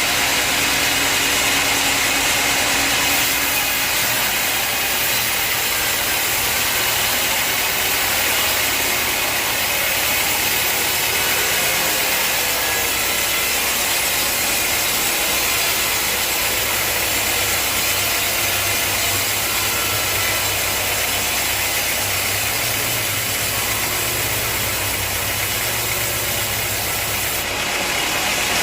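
Sawmill machinery running steadily: an engine's low hum under a continuous high, hissing saw noise, the engine note shifting slightly a couple of times.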